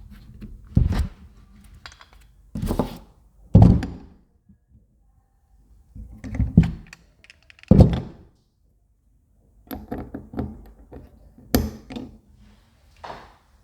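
A heavy truck engine mount support being handled on a hard surface: a series of loud thunks, about six in all, with lighter knocks and taps between them.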